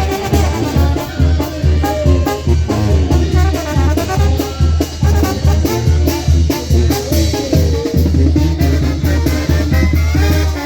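Mexican banda brass band playing an up-tempo piece, a pulsing bass line under brass melody lines.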